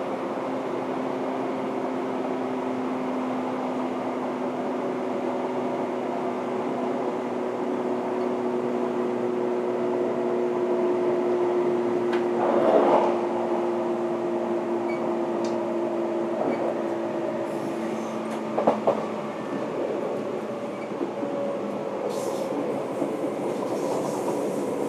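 Running noise in the vestibule of a 583 series sleeper EMU motor car (MoHaNe 583) under way: a steady rumble with a hum of a few held tones, and short clatters about halfway through and again a little after that.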